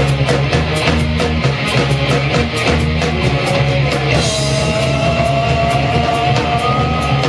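Live rock band playing: drum kit keeping a steady cymbal beat about four strokes a second, over bass and electric guitar. About four seconds in, a lead line holds one long note that slowly rises in pitch.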